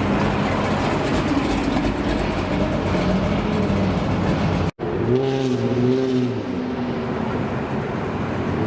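American muscle car engine revving, its pitch rising and falling with each blip of the throttle. It breaks off abruptly just before halfway, then another stretch of revving follows.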